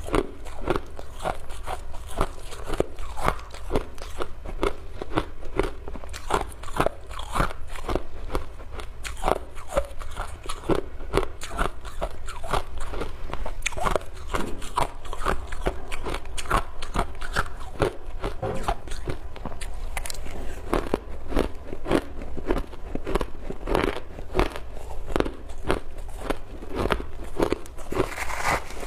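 A person biting and chewing ice: a continuous run of sharp crunches, several a second.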